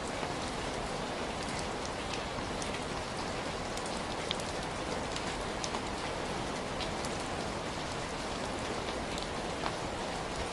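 Heavy rain falling steadily, an even hiss with the scattered sharp ticks of single drops striking a surface.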